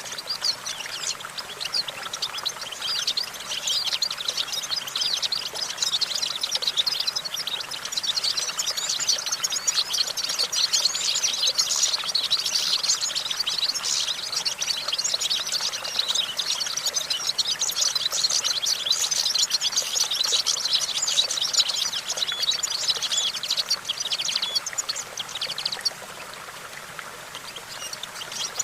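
European goldfinch singing: a fast, continuous stream of twittering chirps and trills, which drops away about 25 seconds in and starts again near the end.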